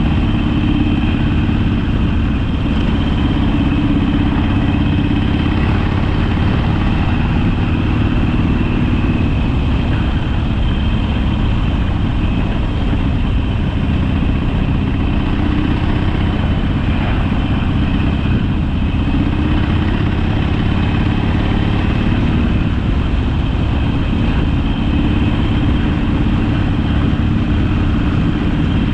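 Harley-Davidson Sportster air-cooled V-twin running steadily, its engine note drifting slightly up and down in pitch.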